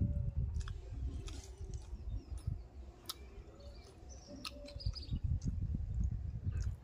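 A person chewing and smacking while eating fish curry and rice by hand, with scattered sharp mouth clicks over a steady low rumble. Birds chirp faintly in the background, mostly around the middle.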